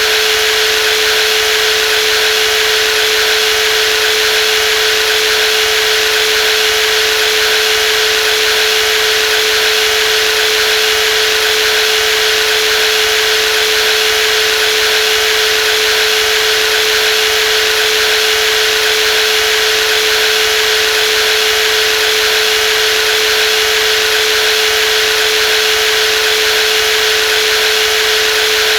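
Brushless jigsaw running steadily: one unchanging pitch over a dense hiss, with no rise or fall.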